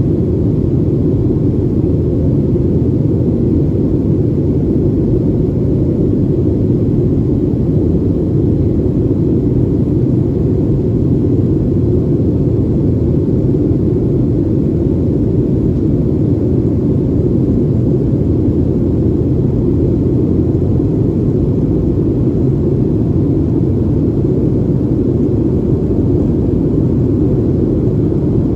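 Steady low rumble of a Boeing 737's jet engines and rushing air, heard from inside the passenger cabin in flight.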